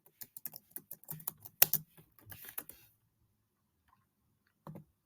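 Typing on a computer keyboard: a quick, uneven run of key clicks for about three seconds, then a pause and one more keystroke near the end.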